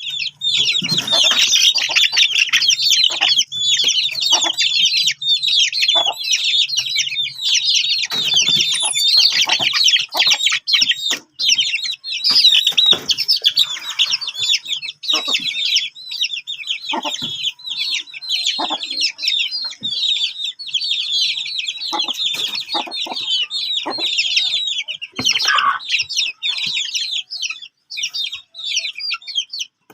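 A group of Aseel chicks peeping nonstop, many short, high-pitched cheeps overlapping, with a few soft knocks in between.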